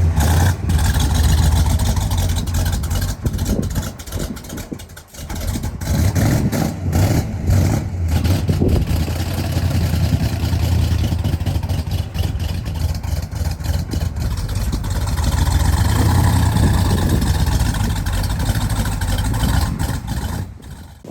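A vehicle engine running, with a strong low rumble and road or wind noise that swell and ease, dipping briefly about a quarter of the way through. It cuts off suddenly at the end.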